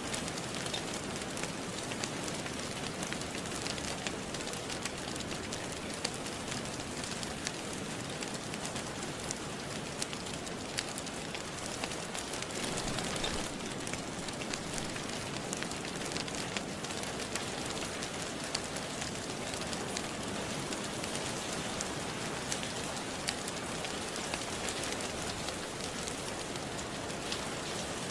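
Steady rain hissing, mixed with a crackling wood fire whose small sharp pops come often and irregularly.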